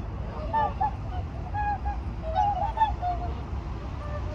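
A flock of whooper swans calling: many short, overlapping honking calls, some bending up and down in pitch, over a steady low rumble.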